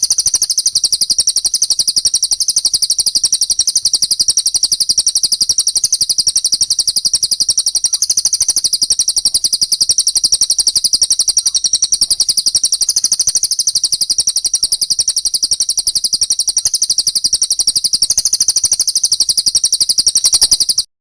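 Small songbird calling in a rapid, unbroken string of high chirps repeated evenly many times a second, typical of a masteran recording for training cage birds; it cuts off abruptly near the end.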